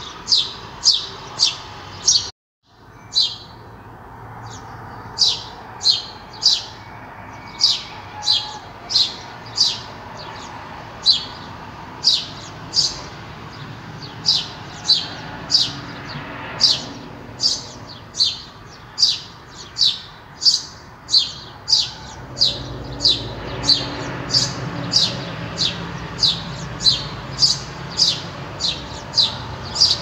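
A bird chirping over and over: short, high, falling chirps about one and a half a second, with a brief break about two and a half seconds in.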